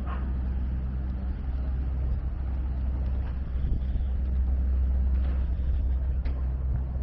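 A large engine running close by with a low, steady hum.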